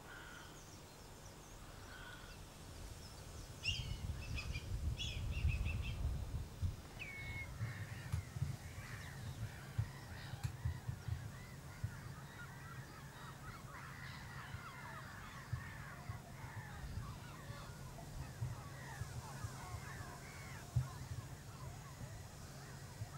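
Several birds calling: a few higher calls about four seconds in, then a dense, overlapping run of short calls for most of the rest, over a steady low rumble.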